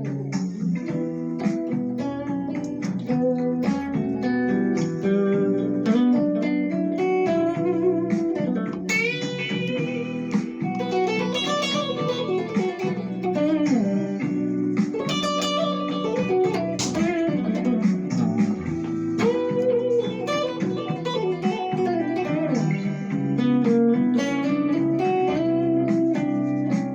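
Guitar music: a continuous instrumental of plucked notes and chords, with some notes bent or slid in pitch.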